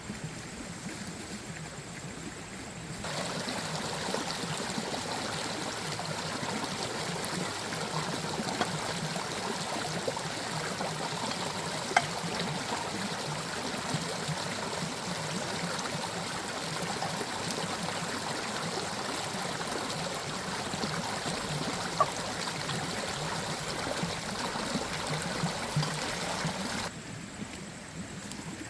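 Steady rushing of running water. It gets louder about three seconds in and drops back near the end, with a couple of sharp clicks in between.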